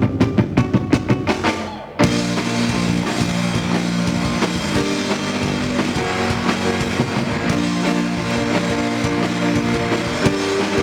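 Live rock band playing a song's instrumental intro. It opens with a quick run of drum hits, and the full band with guitars and drums comes in about two seconds in.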